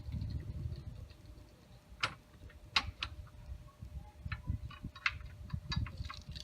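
Irregular sharp metallic clicks and light knocks of tools and bracket parts being handled against a motorcycle engine bolt, over low rubbing handling noise; the loudest clicks fall about two and three seconds in.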